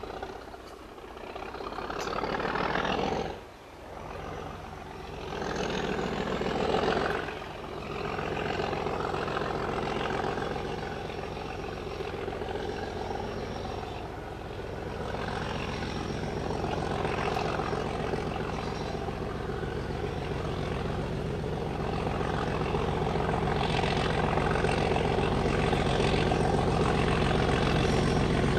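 Heavy diesel locomotive engine running, growing steadily louder over the second half.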